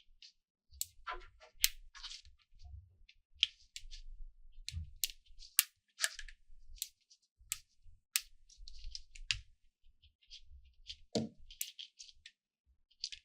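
Small magnetic balls clicking as they snap onto one another and are set in place, a string of irregular sharp clicks.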